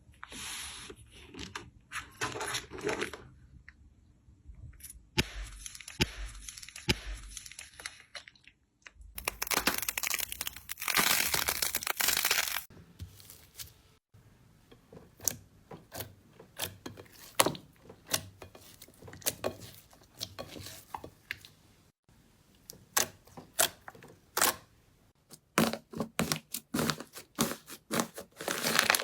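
Slime being squished, stretched and poked by hand: sticky crackling and tearing in dense stretches, and sharp crunchy clicks and pops in between, in several short takes one after another. The loudest stretch is a dense crackling run about ten seconds in.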